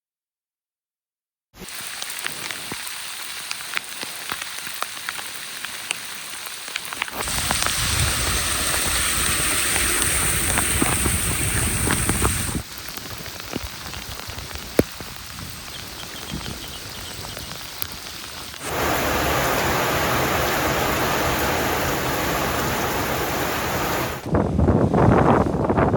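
Steady rain noise heard in a string of separate clips that cut abruptly from one to the next every five or six seconds, starting about a second and a half in. The last clip, near the end, adds a gusty low rumble of wind on the microphone.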